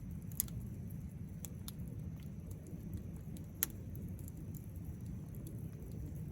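Wood fire burning in a campfire pit, with sharp crackles and pops from the burning wood over a steady low rumble of flames. The loudest pops come about half a second in and again a little after three and a half seconds.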